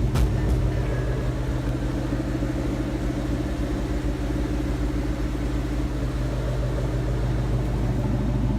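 Ford Mustang engine idling steadily just after a cold start, running on a freshly revised E85 tune. A short click sounds right at the start.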